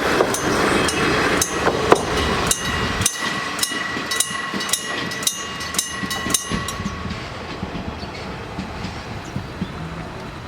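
Diesel railcar passing over a level crossing, its wheels clicking over the rail joints; the running noise fades steadily as it moves away.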